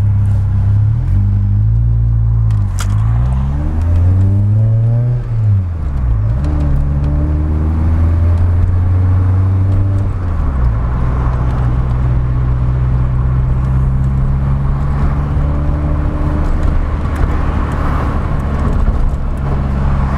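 Mk2 VW Golf GTI's four-cylinder engine heard from inside the cabin, accelerating through the gears: its pitch climbs and drops back at each upshift, three times in the first ten seconds or so, then it settles into a steady cruise.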